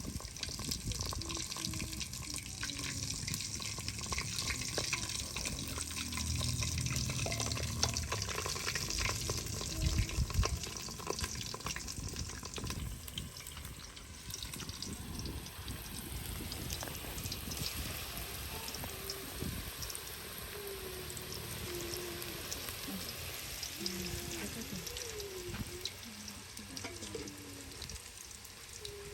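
Snacks frying in hot oil: a steady sizzle full of small crackles and pops, louder for the first ten seconds or so and easing off after that.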